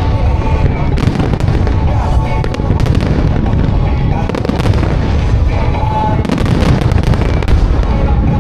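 A dense barrage of aerial firework shells, a music starmine, bursting continuously in booms and crackles. Music plays over loudspeakers underneath.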